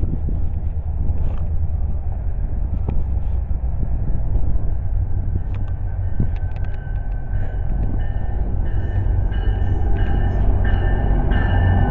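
MARC commuter train approaching along the track, a steady low rumble that grows slightly louder. From about halfway a high tone repeats about every two-thirds of a second.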